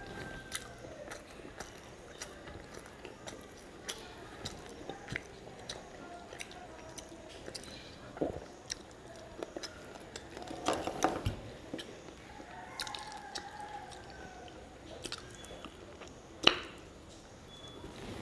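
Close-up eating sounds of a person chewing rice and fish curry eaten by hand: wet chewing with many short mouth clicks and smacks, a cluster of louder ones about eleven seconds in and one sharp smack at about sixteen seconds.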